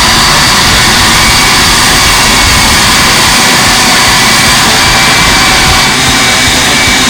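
Electric power sander running steadily, a loud even machine noise with a faint high whine, as old paint is sanded off a boat hull.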